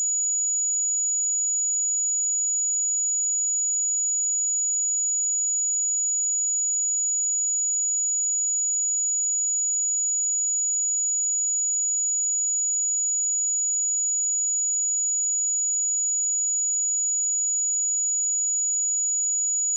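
A pure 6866 Hz sine-wave test tone: one steady, high-pitched whistle held at a constant level.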